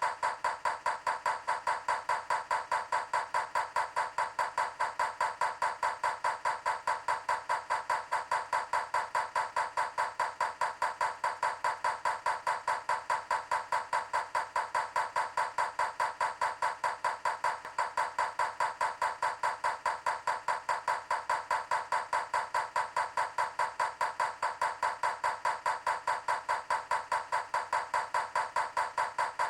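A rapid, perfectly even tapping, about four taps a second, going on without a break.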